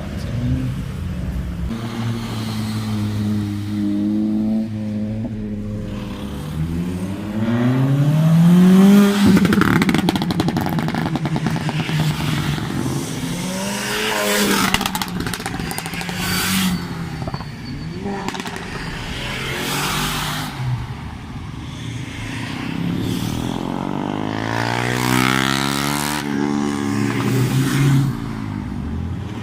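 Modified car engines accelerating hard and revving as cars pass one after another, engine pitch climbing with each pull. The loudest pass comes about nine seconds in.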